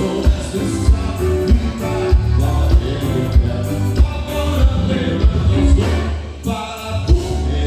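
Live gaúcho band music with singing over a steady low drum beat. The music dips briefly about six and a half seconds in.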